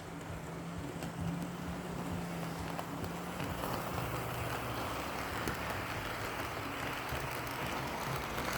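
HO scale model locomotive running on the track: a steady low motor hum with wheel rumble and scattered small clicks from the rails, the rumble growing louder about halfway through.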